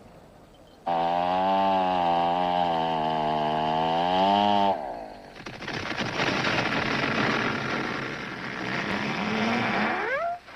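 Chainsaw running at a steady high pitch, which drops away about five seconds in. A long rough, crackling noise follows, and near the end there is a rising whine like the saw revving up again.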